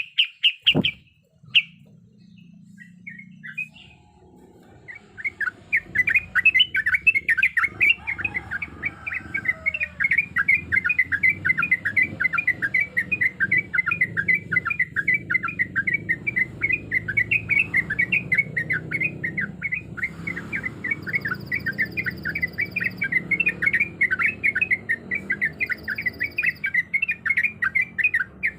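Yellow-vented bulbul (trucuk) singing a long, fast run of repeated chirping notes, several a second, starting about five seconds in after a short pause. A low steady hum runs underneath.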